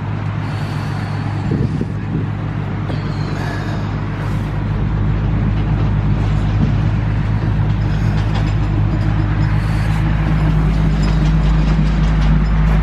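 Heavy tow truck's engine running steadily with a low hum, getting gradually louder from about four seconds in.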